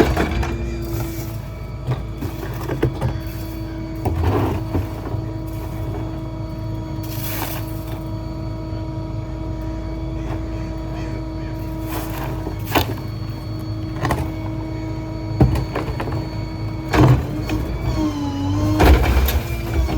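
Hydraulic packer of a Ford F-550 rear-load garbage truck running over the idling engine: a steady pump whine that sags in pitch as the blade takes load near the start and again near the end, with scattered knocks and clunks of debris being crushed in the hopper.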